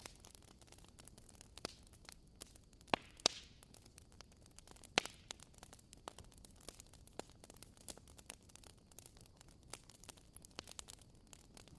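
Burning firewood crackling: a dense run of small irregular snaps, with a few louder pops about three and five seconds in.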